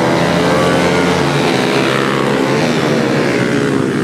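Several pit-bike engines revving hard, their pitches rising and falling as the bikes accelerate and shift.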